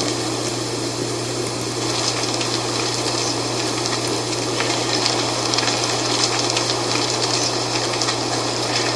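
Dry fall leaves rustling in the wind: a steady rush of noise dotted with many small crackles, over a constant low hum.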